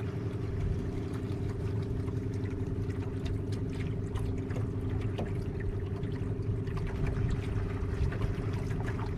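A motorboat's engine running with a steady hum, and water splashing and trickling along the hull.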